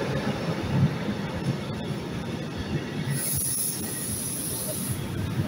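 Container freight wagons rolling past on the rails with a steady rumble, and a high-pitched wheel squeal for about two seconds past the middle.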